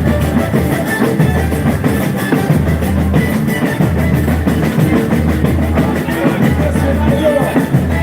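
Loud live boi-bumbá toada music from a band with heavy, steady drumming and a pulsing deep bass.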